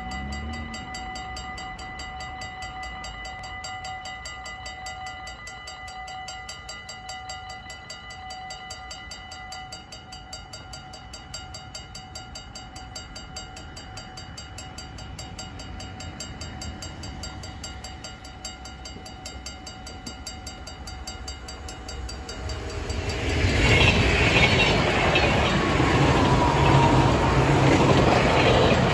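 Dutch level-crossing warning bell ringing in a rapid, steady rhythm. About 23 seconds in, an NS double-decker train passes the crossing at speed, its loud rush of wheels on rail covering the bell.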